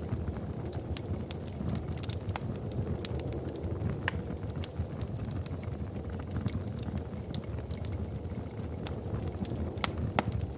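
Wood fire crackling in a fireplace: a steady low rumble of flames with frequent sharp pops and snaps, two louder pops near the end.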